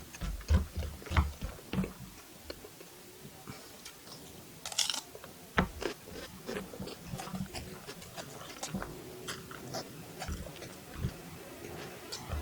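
Close-miked eating of spicy beef fried rice: chewing and biting with irregular wet clicks and smacks, and a louder, sharper noisy burst about five seconds in.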